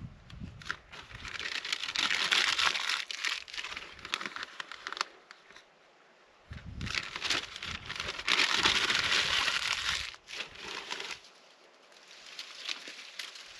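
Packaging being handled, crinkling and rustling in two long stretches with a short pause between, along with a low rumble in the second stretch.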